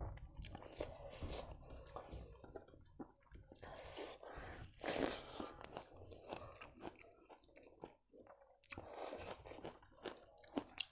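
A person chewing mouthfuls of rice and buffalo meat close to the microphone, with small crunches and wet mouth noises, and the fingers mixing rice on the plate between bites. It is loudest about four to five seconds in.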